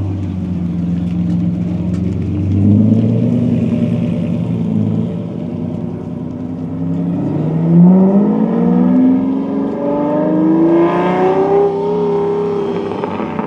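Lamborghini engine running at low revs, then accelerating hard from about seven seconds in, its pitch climbing steeply as it revs out, loudest near eight seconds.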